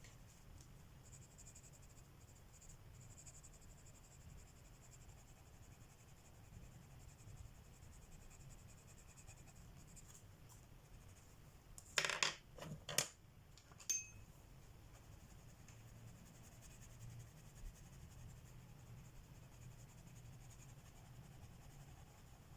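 Coloured pencil scratching faintly on paper, with a brief cluster of sharp, ringing clicks about halfway through, one more following a second later.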